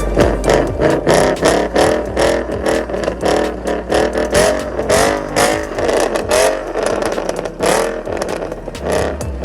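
Ford Mustang's 5-litre V8 engine revving over and over, its pitch rising and falling in quick short sweeps.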